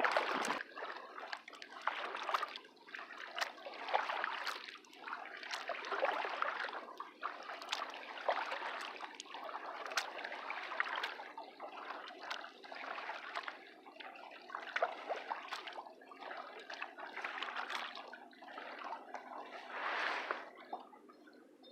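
Water splashing, trickling and dripping as a kayak paddle dips and pulls through the water, in uneven swells about every second or so, with small knocks.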